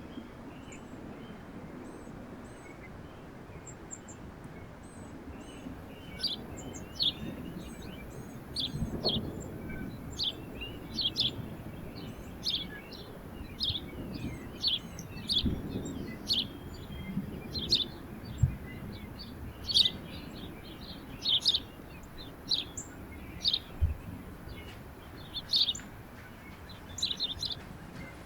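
A small songbird chirping: short, high chirps repeated about one or two a second, starting about six seconds in, over a steady low background noise.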